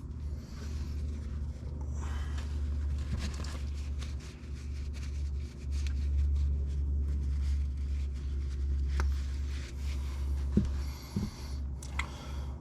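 Light scraping and small clicks of metal parts being handled as the front differential's diff-lock actuator is pushed out and turned over for inspection, over a steady low hum.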